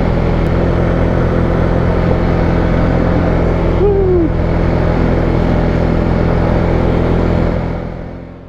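Single-cylinder ATV engine running at a steady pace while riding a trail, close to the microphone. The sound fades out near the end.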